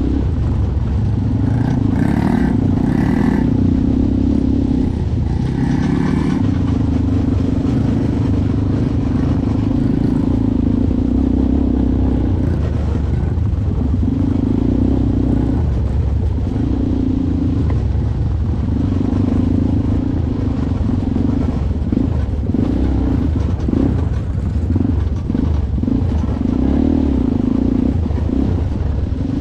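ATV engine running during a ride, its drone coming and going as the throttle is opened and eased off, over a constant low rumble.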